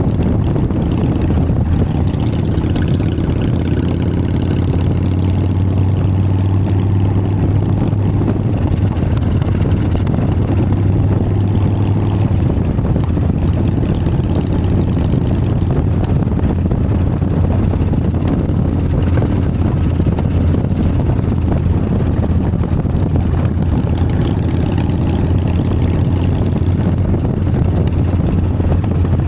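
Harley-Davidson Sportster's V-twin engine running steadily, a constant low drone.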